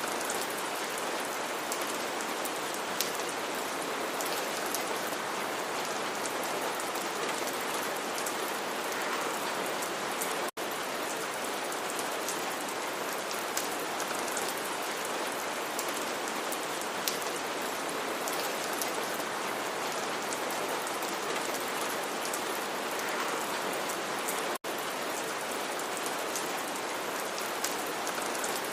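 Steady rain, an even hiss with individual drops ticking through it. It drops out suddenly for a split second twice, about a third of the way in and again near the end.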